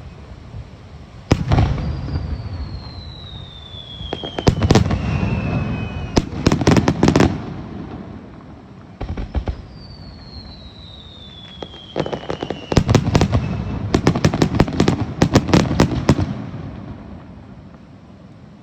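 Aerial fireworks shells bursting in two rapid volleys of sharp bangs after a single opening bang. Each volley comes with a long whistle that falls in pitch.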